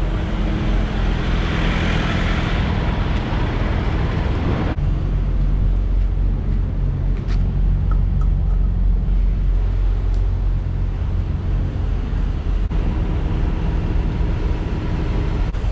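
Semi truck's diesel engine running steadily at low speed while the truck reverses into a parking space. A hiss sounds over it for the first few seconds and cuts off suddenly.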